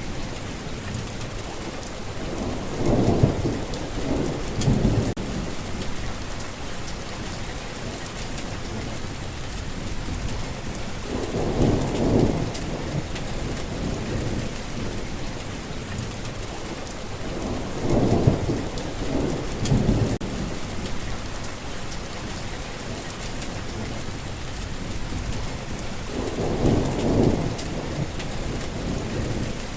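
Steady rain falling, with low rumbles of thunder swelling up four times, each lasting a couple of seconds.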